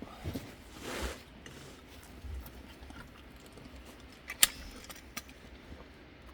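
Quiet handling noises as a sheep is dosed with a mineral bolus: a short rustle about a second in, then one sharp click about four and a half seconds in and a few fainter ticks.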